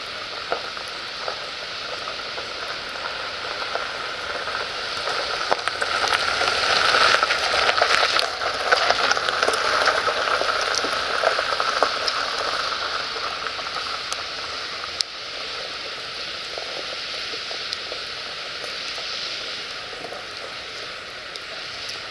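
Firewood burning in a fire pit, crackling with many small pops; it grows louder for several seconds around the middle.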